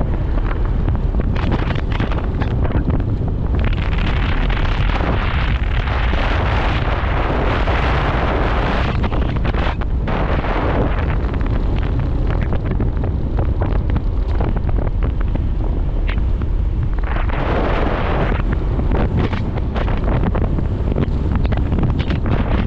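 Wind buffeting the microphone of a riding motorcycle: a steady, heavy low rumble with swells of rushing hiss that rise and fall every few seconds.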